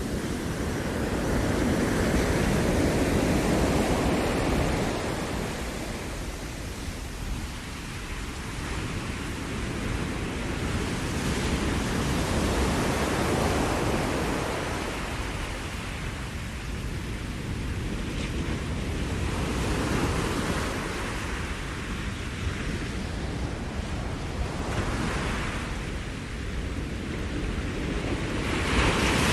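Ocean surf breaking and washing up the shore, the rush swelling and fading every several seconds.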